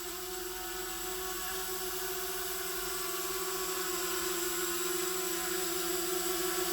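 Hubsan Zino Mini SE quadcopter hovering, its motors and propellers making a steady whirring hum that grows slightly louder as it nears.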